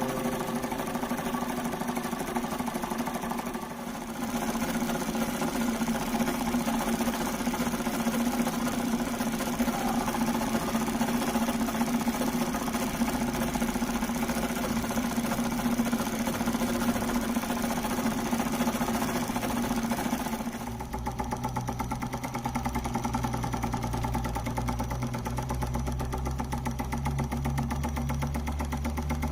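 Small homemade V-type solenoid (electromagnet) engine model running, a fast, steady mechanical clatter. About 20 seconds in, the sound changes and a low hum joins it.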